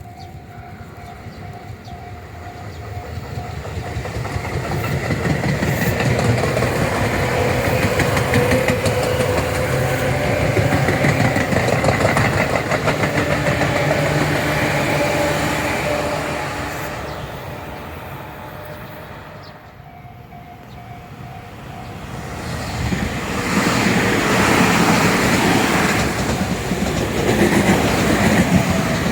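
Tobu Tojo Line electric trains passing at close range, wheels clattering over the rail joints. One train builds up and runs past for about ten seconds, fades away about two-thirds of the way through, and a second train then comes in loud near the end.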